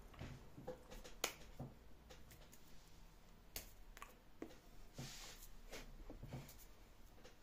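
Faint, scattered short clicks and light taps over a low background hum; the sharpest click comes a little over a second in, and there is a brief soft hiss about five seconds in.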